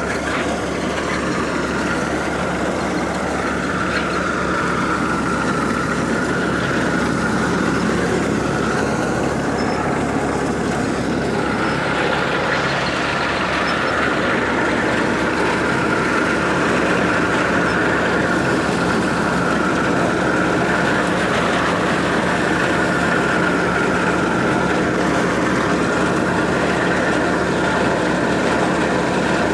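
Massey Ferguson tractor running steadily while powering a thresher: a continuous mechanical din with a steady hum and a steady higher whine, building slightly over the first few seconds, then holding level.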